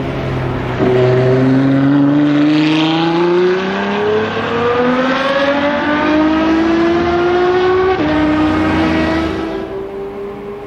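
Ferrari F12 Berlinetta's naturally aspirated V12 accelerating hard past and away. It gets louder about a second in, then its pitch climbs steadily, dropping at an upshift about halfway through and another about eight seconds in, and it fades near the end.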